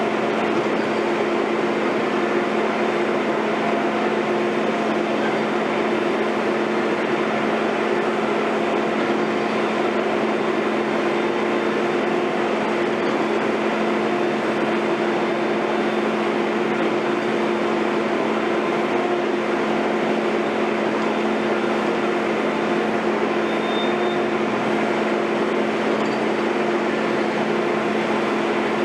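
Heavy construction machinery running steadily: a constant diesel engine drone with an even hum that holds the same pitch and level throughout.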